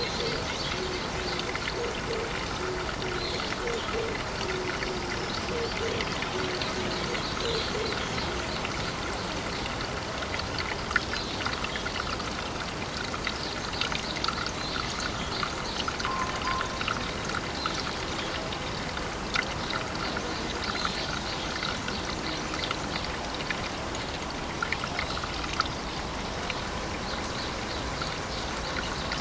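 Pond water trickling and bubbling steadily, with scattered small clicks and plops.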